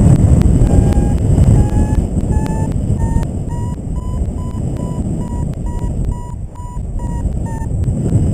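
Paragliding variometer beeping the climb tone: short beeps that rise in pitch and come faster, signalling the glider is climbing in lift, over wind rushing on the microphone. The beeps stop shortly before the end.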